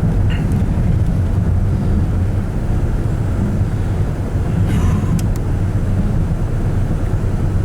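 Steady low rumble of engine and tyres on a snowy road, heard from inside a moving vehicle's cab.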